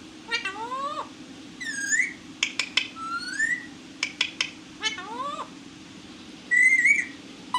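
Pet parrot calling: a run of rising, whistle-like calls mixed with sharp clicks, with a louder squawk about two seconds in and another near the end. A steady low hum runs underneath.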